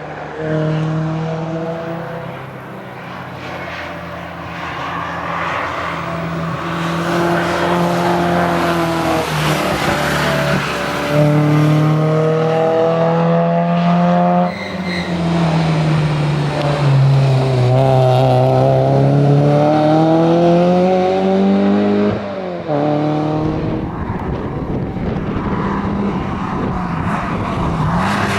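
Porsche 968 CS's 3.0-litre four-cylinder engine driven hard, its revs climbing and dropping, with sudden breaks in the note a little past halfway and again about four-fifths in.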